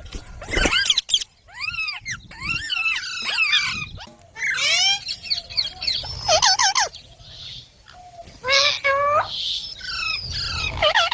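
Indian ringneck parrots chattering and calling: bursts of quick chirps and squawks that slide up and down in pitch, with short pauses between them.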